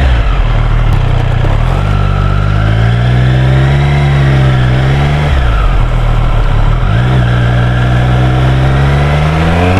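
Triumph Street Triple 765 R motorcycle engine under way. The revs rise and hold, fall away about five and a half seconds in, then pick up again and climb near the end.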